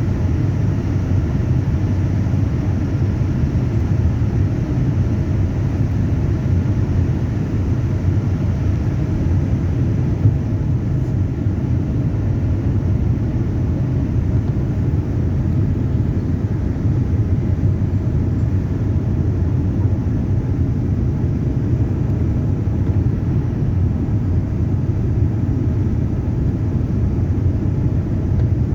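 Steady airliner cabin noise: a constant low rumble of jet engines and airflow.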